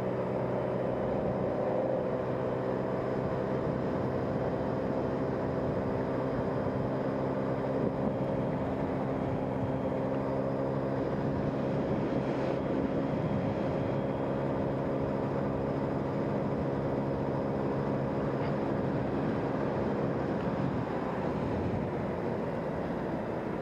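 Motorcycle engine running steadily while riding, with road and wind noise; it eases off a little near the end as the bike slows.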